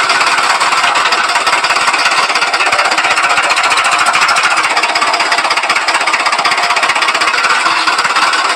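Miniature diesel-engine water pump model running with a fast, steady mechanical clatter.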